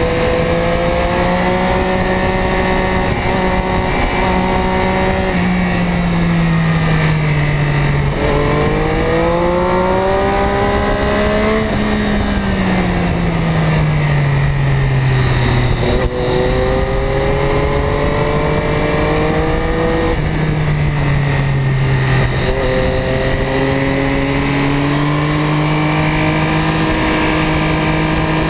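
Ducati Diavel's V-twin engine with Termignoni exhaust heard from on board while riding through bends, its revs rising and falling repeatedly under throttle and gear changes, climbing hardest about a third of the way in. Wind rush runs under the engine note.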